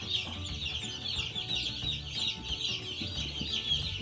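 A brooder full of Cornish Cross broiler chicks peeping all at once, a continuous chorus of many high overlapping chirps.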